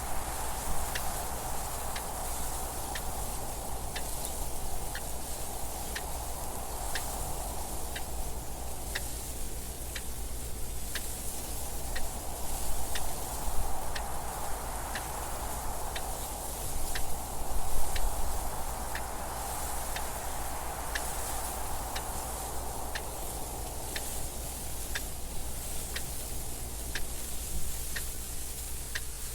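A clock ticking steadily, about once a second, over wind noise that swells and fades every few seconds.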